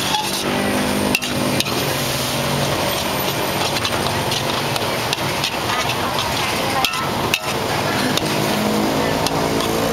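Food frying at a street-food stall: a steady sizzle with a few sharp clanks of utensils on the pan, over a background of voices and traffic.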